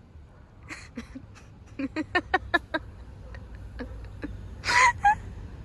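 A person laughing under their breath in a quick run of short bursts, then a brief breathy sound near the end.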